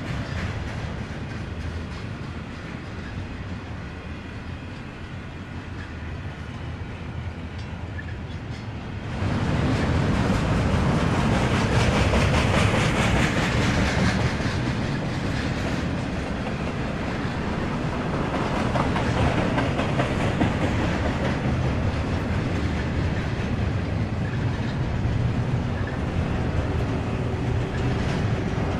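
A train running past on the track. The rumble jumps suddenly louder about nine seconds in and stays loud.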